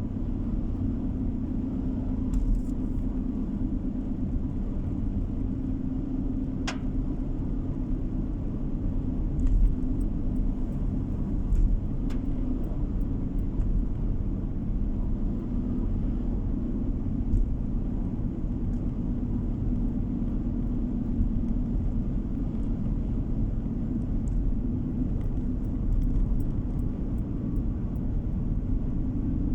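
Car driving, heard from inside the cabin: a steady low rumble of road and engine noise with a humming tone. A few faint clicks come now and then.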